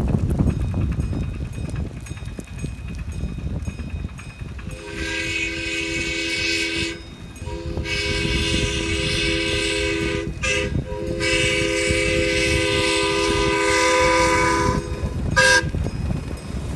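Chime whistle of a ride-on live-steam scale locomotive sounding a chord of several tones: long blasts starting about five seconds in, broken by short gaps, then one short toot near the end. Low rumble and wind noise come before the whistle.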